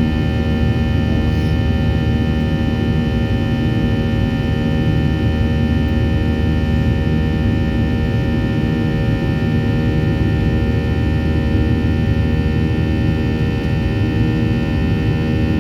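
Steady cabin drone of a Boeing 737-800's CFM56-7B turbofan engines in flight: a low rumble with many steady humming tones over it, unchanging throughout.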